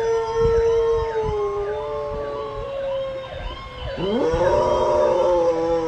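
Golden retriever howling: one long held howl that sags slowly in pitch, breaks off about four seconds in, then starts again with a rising scoop.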